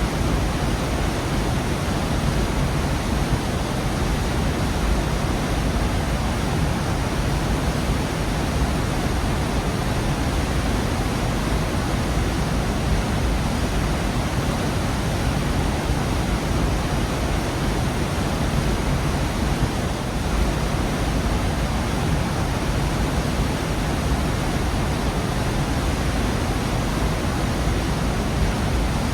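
Gorge waterfall rushing steadily, a dense, even roar of falling water with no let-up.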